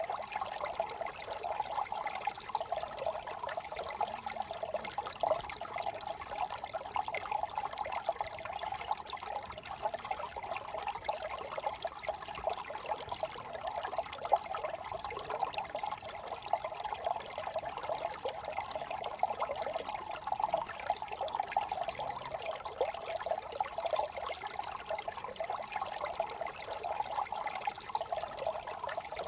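Small brook trickling and burbling over stones, a steady, busy flow of water.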